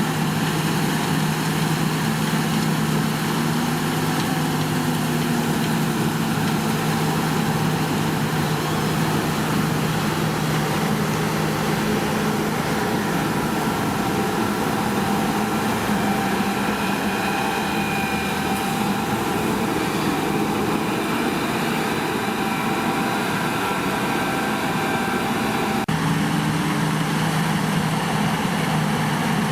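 Diesel engine of harvesting machinery running steadily under load, with a faint high whine over it. The sound changes abruptly near the end, as at a cut to another shot.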